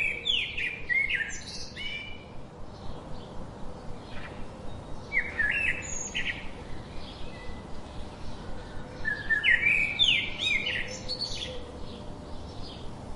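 Songbird singing: three short bursts of quick chirps and slurred whistled notes, spaced a few seconds apart, over a steady outdoor background hiss.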